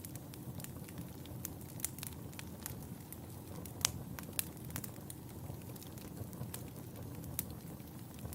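Wood fire in a fireplace crackling: irregular sharp pops and snaps over a low steady rumble of the flames, the sharpest pop about halfway through.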